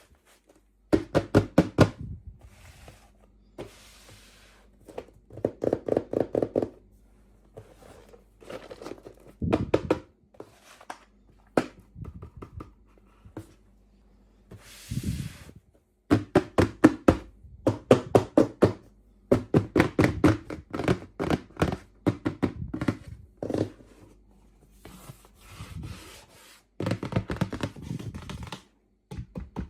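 Toy packaging being handled and opened by hand: clusters of rapid clicking and tapping, broken by short pauses, with a few brief rustles.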